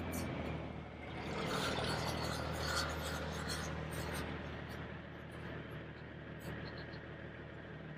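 Plastic toy trucks being pushed along the ground, with rolling and scraping noises, over a steady low hum.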